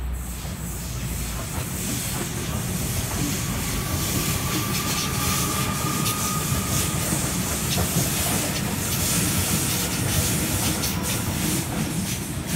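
Electric suburban passenger train running past close below, a steady rumble and hiss from its wheels on the rails. A faint steady whine comes in a few seconds in, and a quick run of clicks near the end as the wheels cross rail joints.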